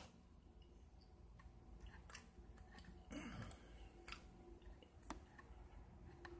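Near-silent room tone with faint chewing and a few soft clicks: a person eating.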